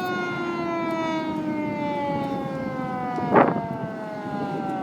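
Fire truck siren winding down, one pitched tone falling slowly. A short, loud burst of another sound cuts in about three and a half seconds in.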